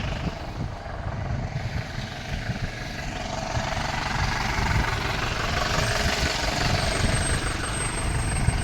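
Steady rumble and road noise of a moving vehicle, growing slightly louder about halfway through.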